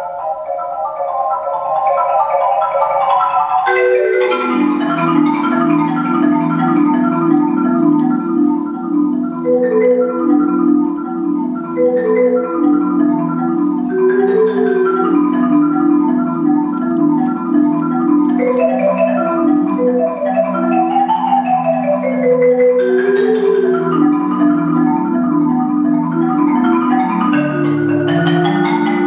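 Marimba played with mallets in a fast, continuous stream of notes. High notes are heard alone at first, then low bass notes come in about four seconds in, with runs rising and falling above them.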